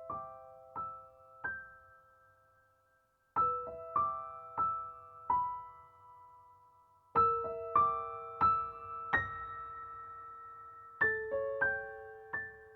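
Background music: a slow, gentle piano melody in short phrases of a few notes each, every note ringing and fading away.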